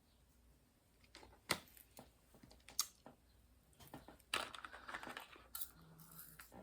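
A few light, sharp clicks and taps, then a stretch of soft rustling and scraping, as diamond-painting materials are handled at a table.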